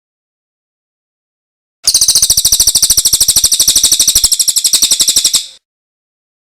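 A songbird's fast, evenly pulsed high-pitched trill of about a dozen notes a second, starting about two seconds in and lasting about three and a half seconds.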